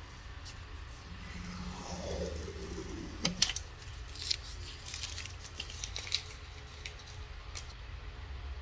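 Hand handling of parts and packaging: a sliding squeak that falls in pitch ends in a sharp click about three seconds in, followed by scattered light clicks and ticks, over a steady low hum.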